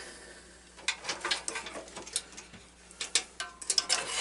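Irregular metallic clicks and clinks of small metal parts and tools being handled, starting about a second in and coming in quick clusters, some with a brief ring.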